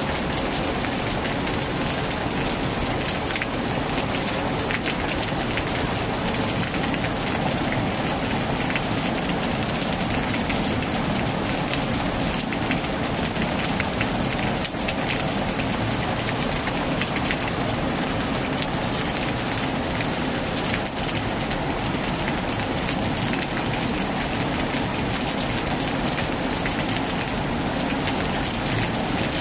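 Heavy rain falling steadily on a tin roof, an even hiss of rain with no thunder.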